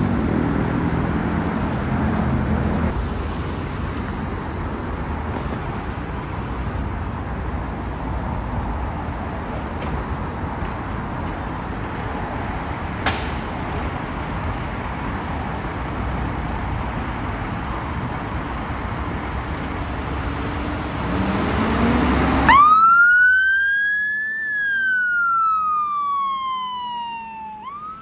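Steady road and engine noise of traffic, with one sharp click about 13 s in. Near the end it gives way suddenly to an emergency vehicle's siren wailing, one slow rise and fall in pitch that starts rising again.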